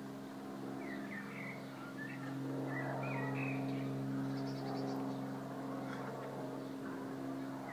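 Steady low drone of an airplane, one unchanging hum, with small birds chirping over it and a brief rapid high trill about four seconds in.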